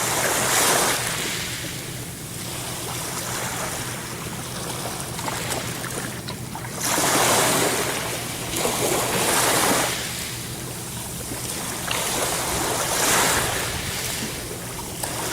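Ocean waves breaking and washing on the shore, the surf swelling and easing again several times.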